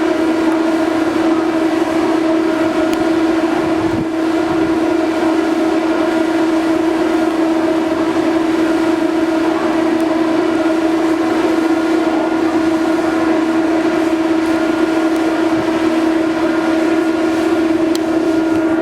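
Ferry's machinery running as a loud, steady, humming drone held on one pitch, over a constant background rush.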